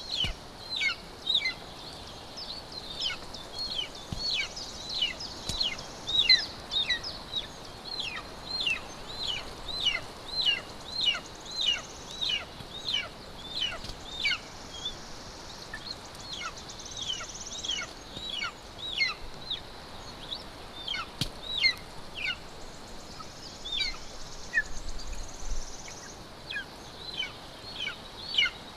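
Golden eagle chick calling while being fed, a steady run of thin, high calls that each slide downward, about one or two a second.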